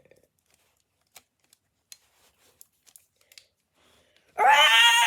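Light clicks and taps of plastic toys being handled, then, about four seconds in, a loud, high, drawn-out dinosaur-style screech that rises sharply and then slowly sinks in pitch.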